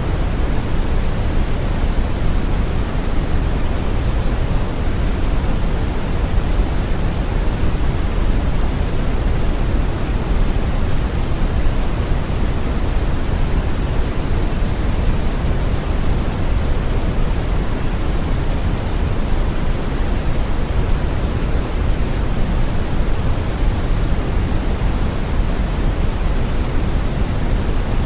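Steady brown noise: an even, unchanging hiss with a deep rumble, strongest in the low end and falling off toward the treble.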